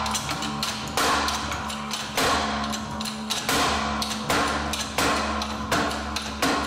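A series of knocks and thuds, roughly one a second and unevenly spaced, over background music.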